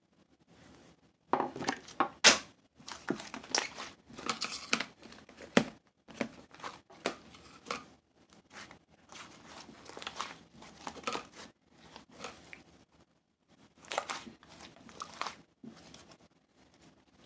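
Irregular bursts of crinkling and rustling handling noise, like material being crumpled and torn, with short pauses between bursts.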